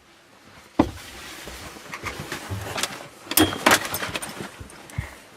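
Handling noises: a sharp click about a second in, then rustling and a few sharp clattering knocks.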